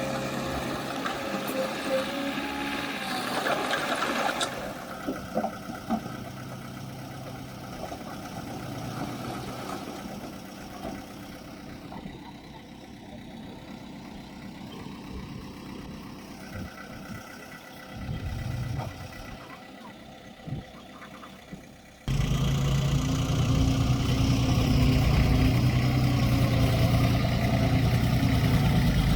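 Diesel engines of heavy earthmoving machinery running, more distant and quieter for most of the stretch with scattered knocks and clatter. About three-quarters of the way through, the sound jumps suddenly to a loud, steady, close engine.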